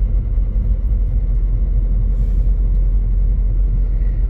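Steady low rumble of engine and tyres from a moving car, heard from inside the cabin, with a brief faint hiss about two seconds in.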